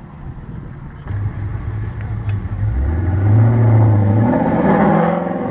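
Two cars accelerating hard side by side in a drag race, their engines revving and getting louder as they come toward the camera. A low engine note swells about three seconds in, then the revs climb near the end.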